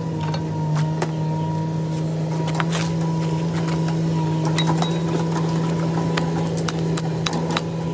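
Steady low mechanical hum, with light clicks and knocks scattered through it.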